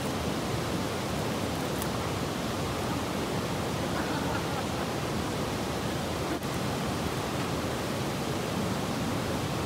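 Steady, even rushing outdoor background noise, with a faint sharp crack from the small twig campfire about six and a half seconds in.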